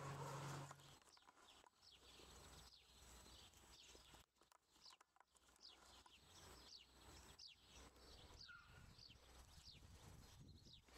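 Quiet outdoor ambience with small birds chirping faintly throughout, in short falling notes, and a few soft knocks. A low steady hum cuts off about a second in.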